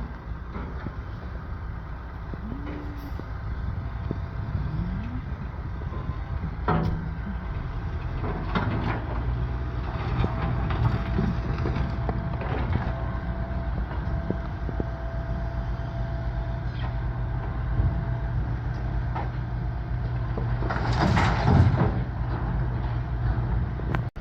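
A grab-loader truck's diesel engine runs steadily while it loads rubble, with scattered knocks and clatter. A short, louder rush of noise comes near the end.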